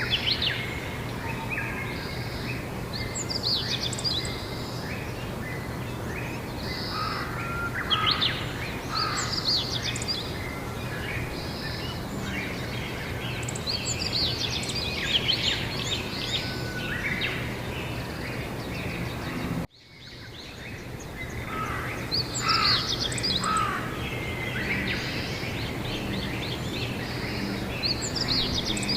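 Songbirds singing in repeated bursts of chirps and trills over a steady low background hum. About two-thirds of the way through the sound cuts out abruptly for a moment and fades back in.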